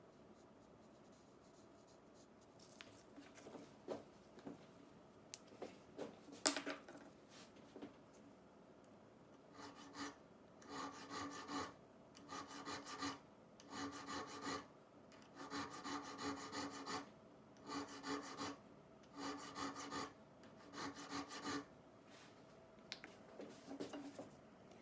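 A few light clicks and knocks, then from about ten seconds in a run of regular back-and-forth hand abrading strokes on the metal of a rusty leather edge iron, about one stroke a second, as the rust is worked off.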